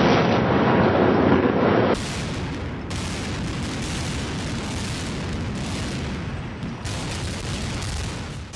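Explosion sound effects: a loud blast lasting about two seconds, then a long, steadier and quieter roar that changes abruptly a couple of times, as if edited together.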